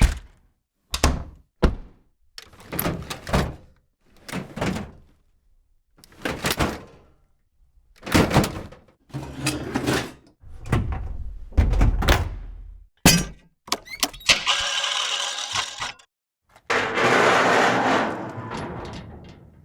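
A string of separate wooden knocks, thunks and clatters from a wood sound-effects set, each dying away quickly. These give way near the end to a few sharp metallic hits and two longer stretches of rushing, scraping noise.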